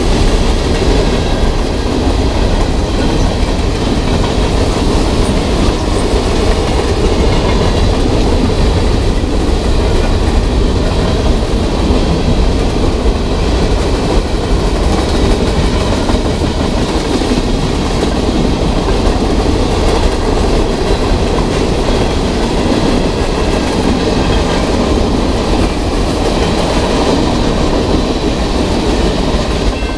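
Freight train cars (tank cars, covered hoppers and boxcars) rolling past close by: a steady, loud rumble with the clickety-clack of steel wheels on the rails.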